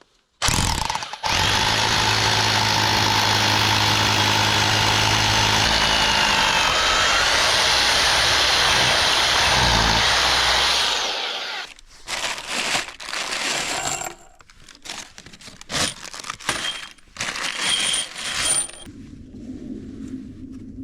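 Electric drill boring into concrete, running steadily for about ten seconds and then stopping. Scattered knocks and clatter follow in the second half.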